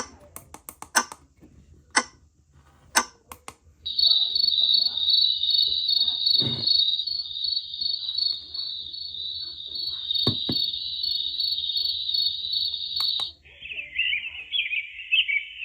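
White noise sleep machine's speaker playing a recorded cricket track: a steady, high, fast-pulsing chirring that starts about four seconds in. Near the end it switches abruptly to twittering birdsong. Before the crickets there are sharp clicks about once a second.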